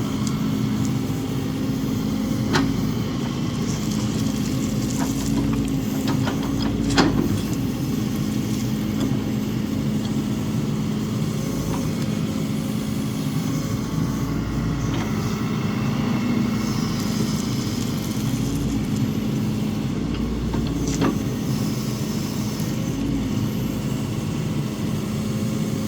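Excavator diesel engine running steadily, with a few sharp metallic clanks from the machine as it works, the loudest about seven seconds in.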